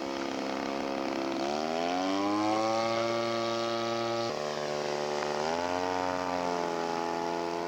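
Radio-controlled scale model airplane engine running with a buzzy, chainsaw-like note. Its pitch rises as it is throttled up about a second and a half in, drops suddenly about four seconds in, and rises again a second later.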